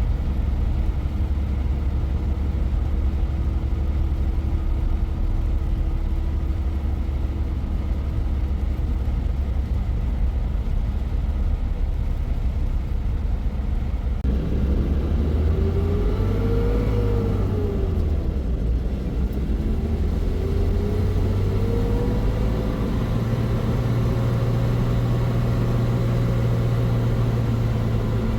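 A vehicle engine running steadily, then revving up and down twice in the second half.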